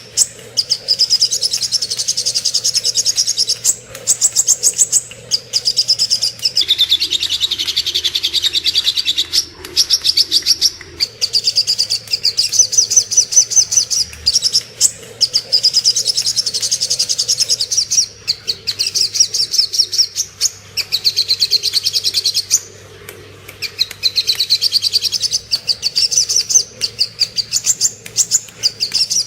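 Sogok ontong bird singing: a rapid, high-pitched trilling chatter in phrases of a few seconds, repeated over and over with brief pauses between them. A faint low hum runs underneath.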